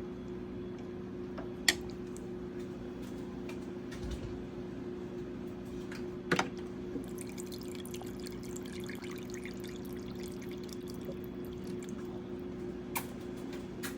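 Liquid pouring and dripping, with a few sharp clinks and a stretch of fine crackle, over a steady low hum.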